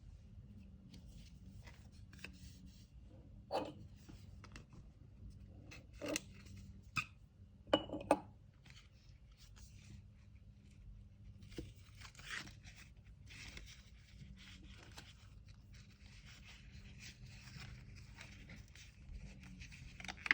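Hands handling packing materials: a few light knocks and taps in the first half, then soft, continuous rustling and tearing of paper.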